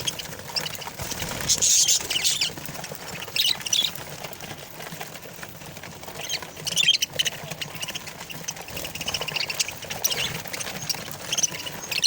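Parrots calling in short bursts of high-pitched chirps and squawks, every second or few.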